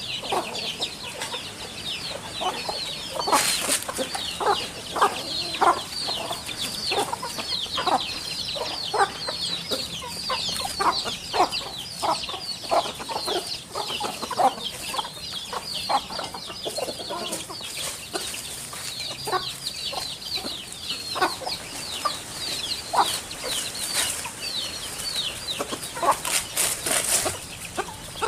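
Birds calling in a backyard: short, low clucking calls repeating about once a second over a continuous chatter of high, quick chirps, with a few brief louder hissy bursts.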